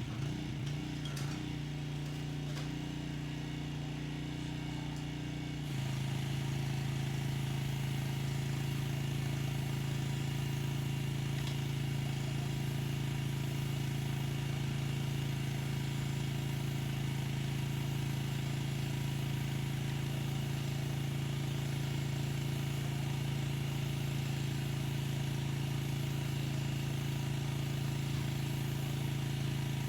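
Pressure washer running steadily with a constant hum; about six seconds in its note changes and it runs a little louder, with a steady hiss.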